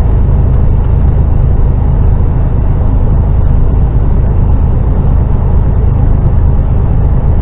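Heavy lorry's diesel engine and road noise heard from inside the cab: a loud, steady low drone.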